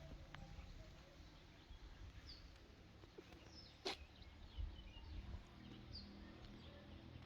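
Near silence outdoors: faint small-bird chirps now and then over a low rumble, with one sharp click a little under four seconds in.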